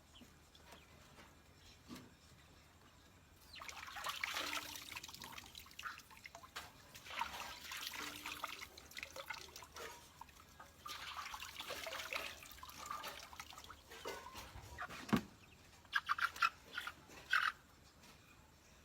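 Water splashing and trickling in two long spells, then a thud and a quick run of sharp clacks near the end.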